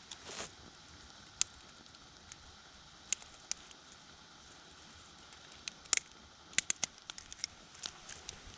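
Campfire crackling: sharp, irregular pops of burning wood over a faint steady hiss, with a quick run of pops in the last couple of seconds.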